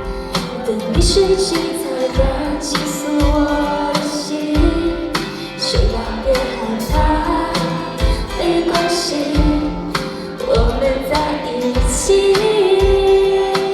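Pop song with female singing over band backing and a steady kick-drum beat.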